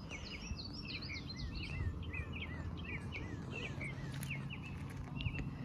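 Small bird chirping a quick string of short, high notes, several a second, over a low steady hum.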